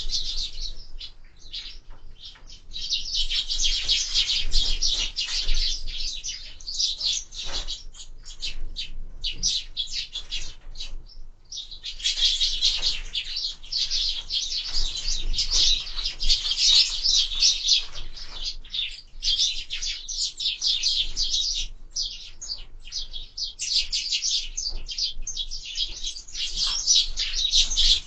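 A flock of sparrows chirping busily, many short overlapping chirps almost without a break, thinning briefly about a third of the way in and again past three quarters.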